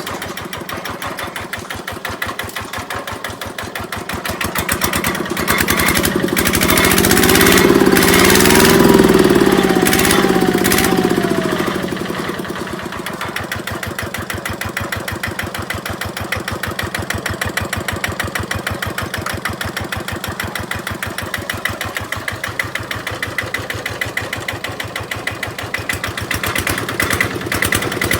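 Kubota RT90 Plus single-cylinder diesel engine on a walking tractor, running with a rapid, even chug. A few seconds in it is revved up and down for several seconds, then settles back to a steady idle.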